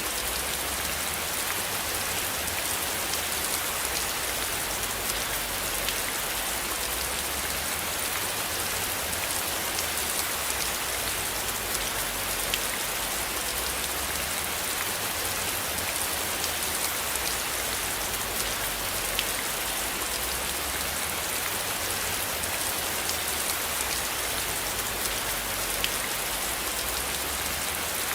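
Steady rain falling: a dense, even hiss of rain on surfaces with scattered sharper drop ticks, over a low rumble.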